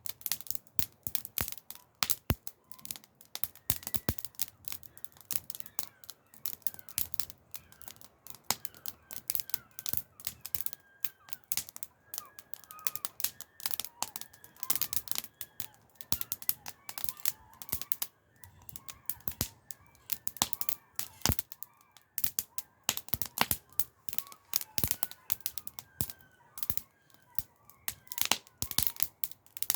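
Wood fire crackling: many sharp, irregular pops and snaps, some louder than others.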